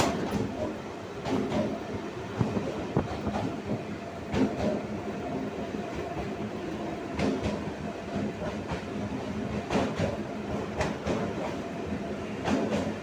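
Suburban electric train running along the track, heard from on board: a steady rumble with irregular clacks and knocks as the wheels pass over rail joints.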